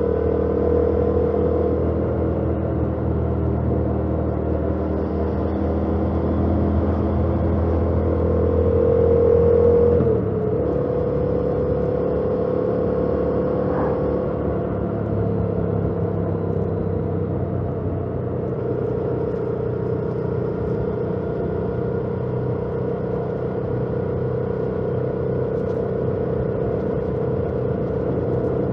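2018 Yamaha MT-07's parallel-twin engine running through its stock exhaust while riding, under road and wind noise. The note climbs slightly and grows louder, then drops suddenly about ten seconds in and settles into a steady cruise.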